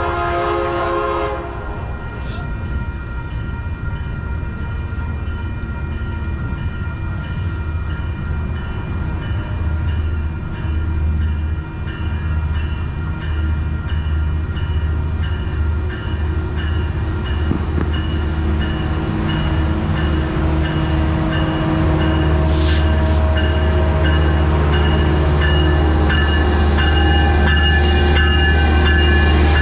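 Passenger train sounding its horn briefly at the start, then approaching with a steady rumble that grows louder from about two-thirds of the way in as it runs past along the platform.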